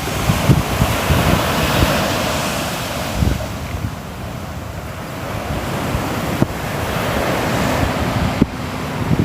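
Ocean waves breaking and washing on the shore, the surf swelling and easing, with low wind rumble on the microphone.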